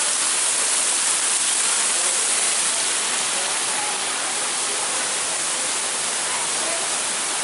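Steady hiss of artificial rain pouring down in an indoor rainforest exhibit's simulated thunderstorm.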